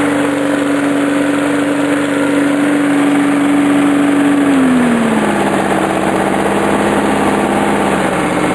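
Briggs & Stratton single-cylinder lawn mower engine running through a scooter muffler, with the engine louder than the exhaust. About halfway through, the engine speed drops a step and it runs on at the lower speed.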